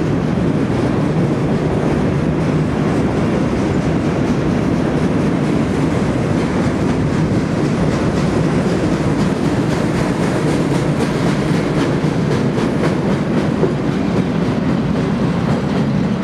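Freight train of boxcars rolling across a high steel trestle overhead: a steady, unbroken rumble of wheels on rail, with faint clicking from the rails.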